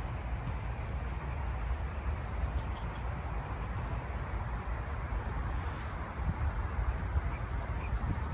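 Outdoor ambience: a steady low rumble with a thin, steady high-pitched whine over it.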